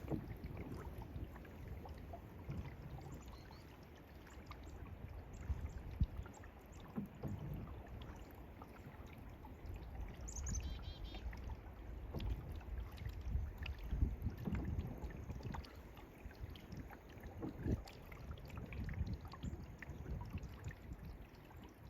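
Canoe paddle strokes: the blade dipping and pulling through the water, with occasional light knocks and drips, over a low rumble of wind on the microphone. A brief high chirp comes about ten seconds in.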